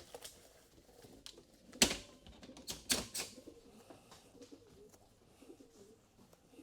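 Homing pigeons cooing softly, with a few sharp knocks or rustles about two and three seconds in.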